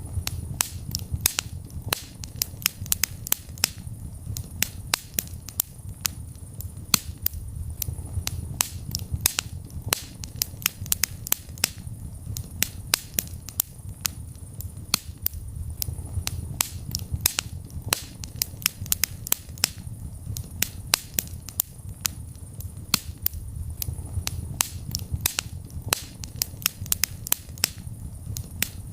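Wood fire burning in a fireplace: a steady low rumble of flames with frequent sharp crackles and pops, several a second.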